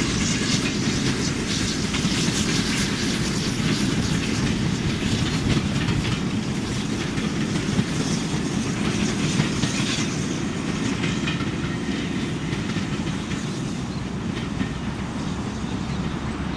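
A steam-hauled passenger train's coaches rolling past, wheels clicking over the rail joints, the rail noise then slowly dying away as the train goes off into the distance.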